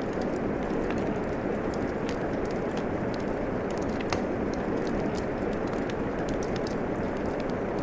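Steady rain hiss mixed with a wood fire crackling, its small sharp pops scattered irregularly, a louder pop about four seconds in.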